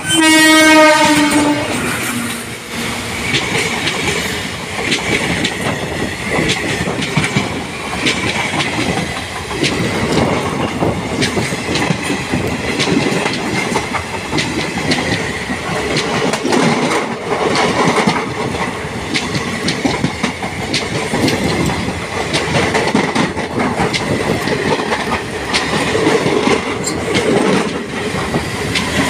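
Electric passenger train passing close by. The locomotive sounds its horn in the first couple of seconds, the pitch dropping as it goes past. Then the coaches rush by with the wheels clattering over the rail joints.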